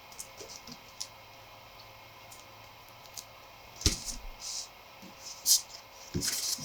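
Handling of a photo book and its paper: scattered light clicks and brief rustles, with a sharper knock about four seconds in and louder rustles near the end.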